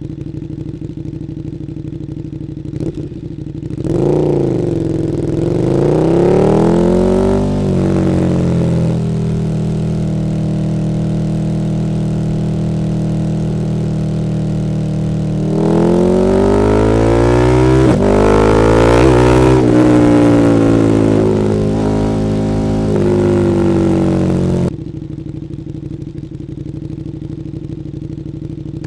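KTM 1290 Super Duke R's V-twin engine through an Akrapovič Evolution Line exhaust: idling, then revving up and down, holding steady revs for several seconds, swinging up and down again with a few quick blips, and dropping suddenly back to idle about three-quarters of the way through.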